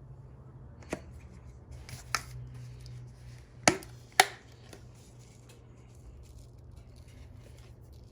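Kitchen containers and utensils knocking and clicking as ingredients are added to the ricotta mix. A couple of light taps come first, then two loud knocks about half a second apart near the middle, over a low steady hum.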